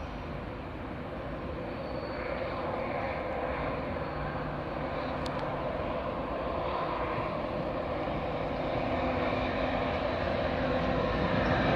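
Express passenger train approaching, its rumble growing steadily louder, with a brief click about five seconds in.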